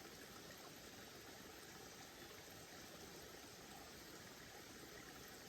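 Faint, steady rushing of a waterfall: an even wash of water noise.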